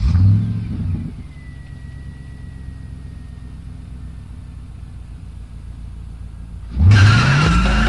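A car engine revs, then settles into a steady low rumble at idle; about seven seconds in it revs again, rising in pitch, as music cuts in.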